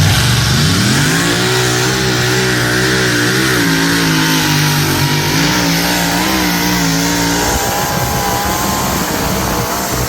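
Light modified pulling tractor's engine revving up as the run begins, then held at high revs with its pitch wavering under load. The pitch changes about seven and a half seconds in.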